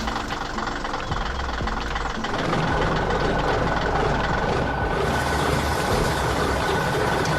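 Heavy construction-vehicle engine running steadily with a low rumble; a thin, steady high tone joins in about two and a half seconds in.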